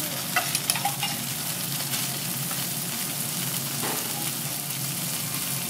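Sliced bitter melon and chopped garlic sizzling in oil on a hot steel teppanyaki griddle, a steady hiss with a few light clicks in the first second.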